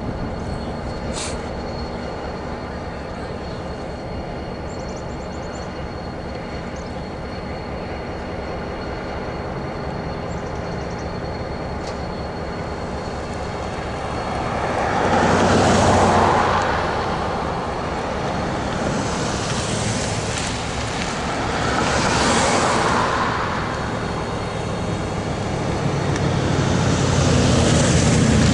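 Diesel locomotive idling with a steady low hum. About halfway through, and twice more toward the end, a louder rushing noise swells up and fades over a couple of seconds.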